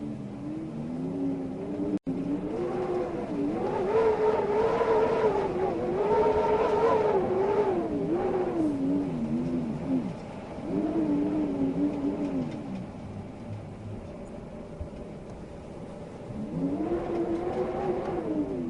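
A motor vehicle's engine revving, its pitch climbing and dropping in several surges, loudest about four to eight seconds in. The sound cuts out for a moment about two seconds in.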